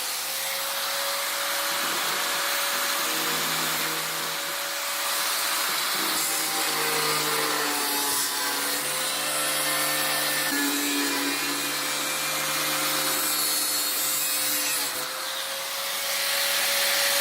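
Angle grinder running continuously with a steady high motor whine, cutting the spot-welded sheet-steel inner panel of a microwave; the pitch sags briefly a few times as the disc bites into the metal.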